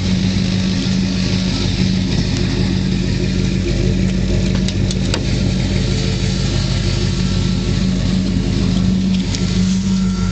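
Ford Thunderbird's engine and road noise heard from inside the cabin while driving, a steady drone at an even pitch, with a couple of faint clicks about five seconds in.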